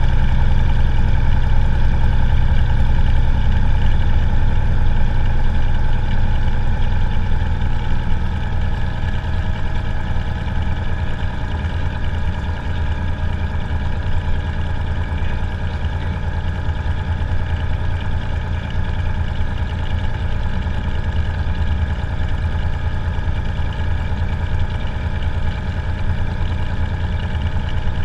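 Cessna 182's single piston engine and propeller running steadily at low power, heard loud from inside the aircraft; the level eases slightly about seven seconds in.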